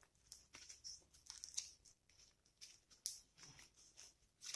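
Faint, irregular scraping and clicking of iron wire being bent into a loop with pliers.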